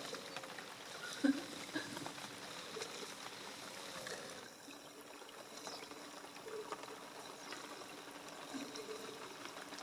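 Steady rain falling, a soft even hiss, with a few faint short pitched sounds in the background.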